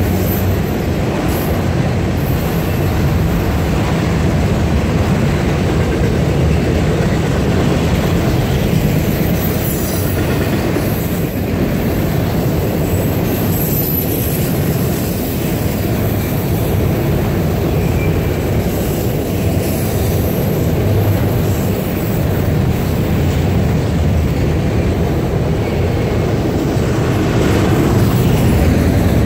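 Freight train of autorack cars rolling past: a steady, loud rumble of steel wheels on rail, with faint high wheel squeals now and then.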